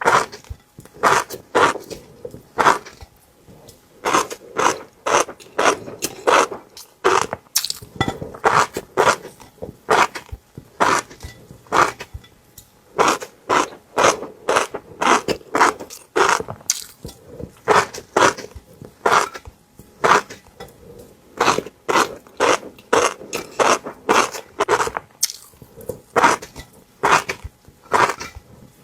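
Close-miked eating sounds from someone chewing fish roe: wet chewing broken by many sharp clicks and pops, a few a second and unevenly spaced.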